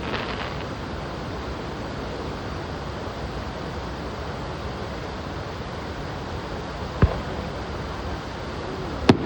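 Two firework bursts going off, sharp single bangs about two seconds apart near the end, over a steady rushing noise.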